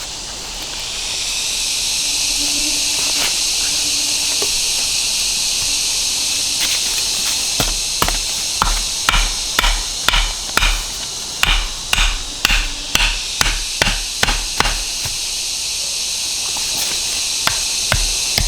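Wood being struck hard and fast, about two blows a second for some seven seconds in the middle and a few more near the end, as trap sticks are chopped or driven in. Under it runs a steady high hiss.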